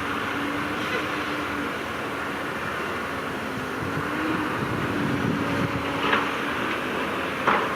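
Heavy diesel earthmoving machinery running steadily, with a few short knocks near the end.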